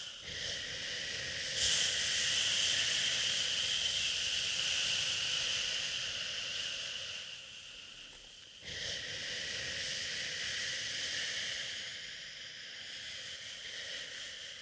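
Long, drawn-out "shhhh" shushing meant to soothe a crying baby. One long shush fades out over about eight seconds, and a second starts abruptly about two-thirds of the way through, then slowly fades.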